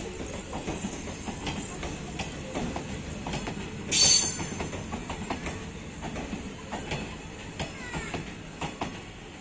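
ICF passenger coaches rolling past as the train pulls out, the wheels clicking irregularly over rail joints. About four seconds in, a brief loud hiss stands out above the clatter.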